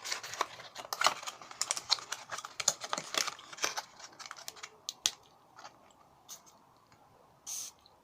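Handling of a perfume box and bottle: a dense run of clicks, taps and packaging rustles that thins to a few scattered clicks after about five seconds, with one short hiss near the end.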